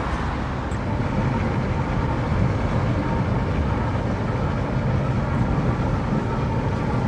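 Steady low engine rumble, running without change.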